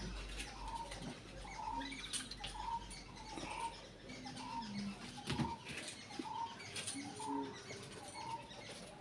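A bird repeating one short note about once a second, with occasional low cooing notes. Scattered light taps and scuffs from the langur monkeys moving on the ledge.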